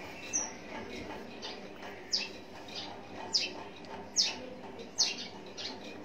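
A bird chirping over and over: short, sharp, falling chirps roughly once a second, with fainter notes between them.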